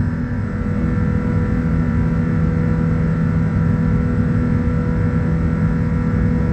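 Airbus A380 cabin noise: a steady rumble of engines and airflow with a few steady tones above it.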